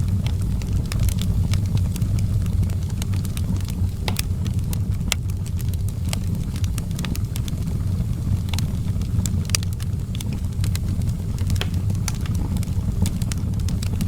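Wood fire burning in an outdoor fireplace, crackling with scattered sharp pops over a steady low rumble.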